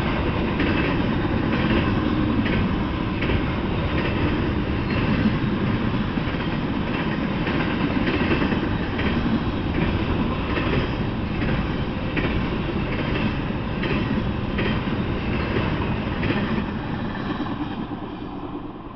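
Double-stack intermodal freight train rolling past: a steady rumble of the cars with regular clacks of the wheels over the track. The sound fades away near the end as the last car goes by.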